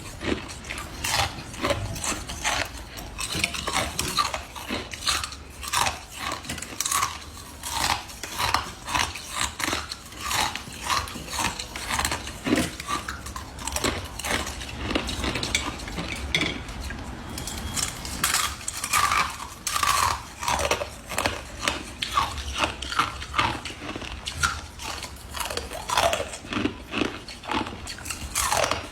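Close-up crunching and chewing of ice in the mouth, a rapid, irregular run of sharp cracks and crackles, several a second.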